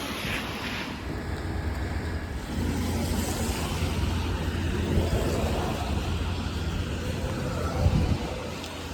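Road traffic on a city street: a steady rumble of passing vehicles, briefly louder near the end.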